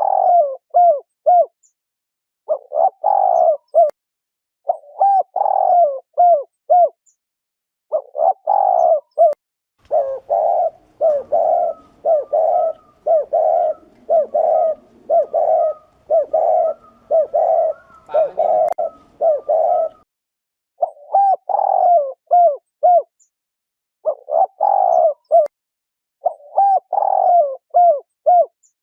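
Spotted dove cooing: short phrases of a few low, pitched coos repeated every couple of seconds, running into a faster unbroken series of coos in the middle.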